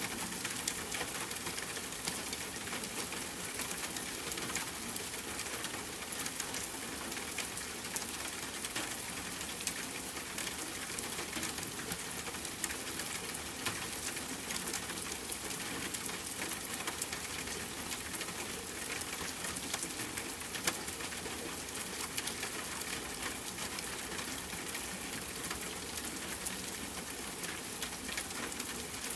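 Steady rain falling, with many individual drops ticking and pattering on a hard surface.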